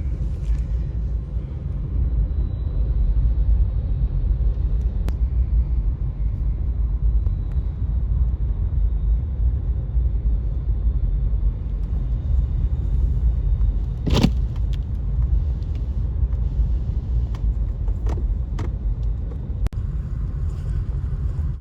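Steady low rumble of a car's road and engine noise heard from inside the cabin at about 45 mph on a snowy highway, with a few faint clicks and one sharper click about two-thirds of the way through.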